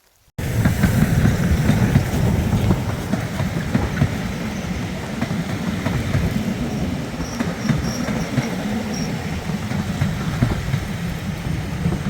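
Train rolling along the track with a steady, loud rumble, starting abruptly just under half a second in.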